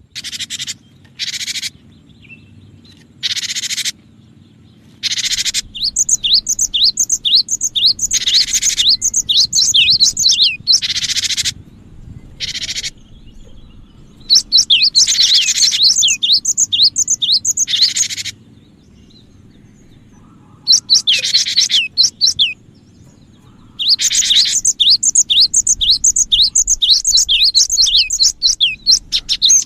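Cinereous tit calling: phrases of rapid, high, down-slurred notes, several a second, alternating with short harsh, buzzy chatters, repeated with brief pauses between phrases. A faint steady low hum runs underneath.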